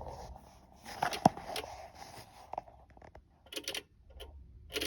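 Irregular clicking and buzzing from a Renault truck's dashboard electrics with the engine off, the sound of an electrical fault that the owner says also comes with power cutting out while driving.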